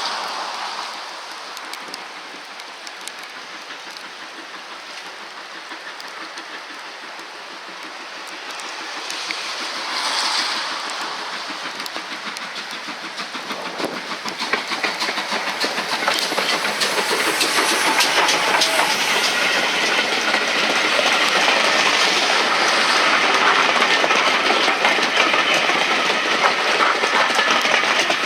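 Steam-hauled train, GWR Large Prairie 2-6-2T tank engine 5199 and its carriages, drawing near and passing. The sound grows louder about halfway through into a fast clatter of wheels over the rail joints, loudest near the end.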